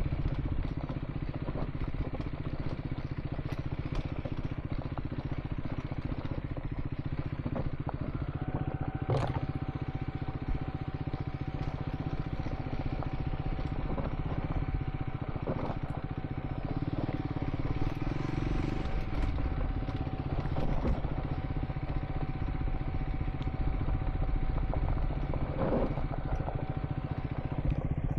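Motorcycle engine running steadily while riding on a gravel track, with scattered knocks and clatter from the rough surface. A thin steady whine joins about eight seconds in.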